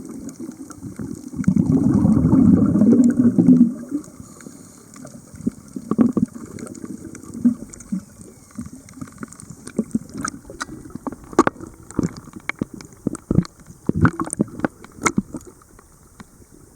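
Underwater sound from a scuba dive: a diver's exhaled bubbles rush loudly for about two seconds near the start. After that it is quieter, with many scattered sharp clicks and crackles.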